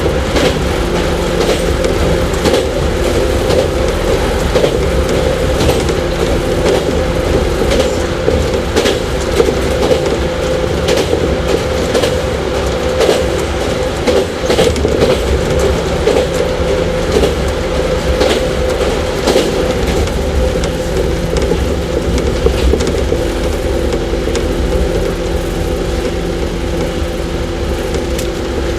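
JR 115 series electric train (motor car KuMoHa 115-318) running at steady speed: a steady hum from its traction motors over a low rumble, with a regular clickety-clack of the wheels crossing rail joints.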